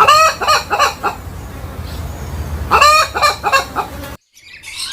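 A bird's clucking calls in two short runs of three or four notes, one at the start and one about three seconds in. The sound cuts off abruptly near the end.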